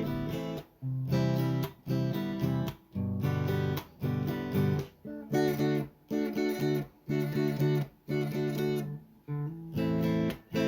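Background music: an acoustic guitar strummed in a steady rhythm of repeated chords.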